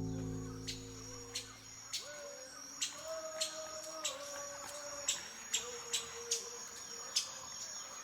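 Faint outdoor ambience of chirping insects: a steady high trill with sharp chirps repeating every half to three-quarters of a second, and faint lower wavering calls around the middle.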